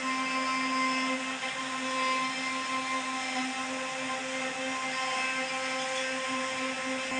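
CNC router spindle running with a steady, high whine while it works the wood.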